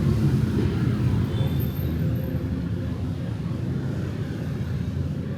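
City street traffic of motorbikes and cars: a steady low rumble that slowly eases off.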